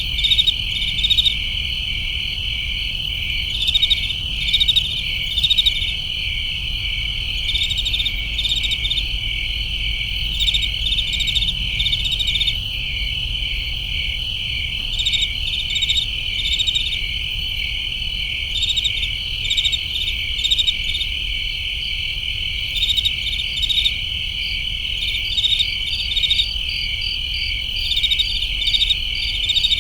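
Crickets chirping in a summer-night chorus: a steady high trill, with groups of faster, louder chirps every few seconds. A low steady rumble runs underneath.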